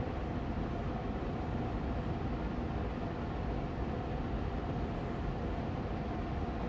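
Austin Air Allergy Machine air purifier fan running steadily on medium speed: a constant hum and rush of air with a faint steady tone in it.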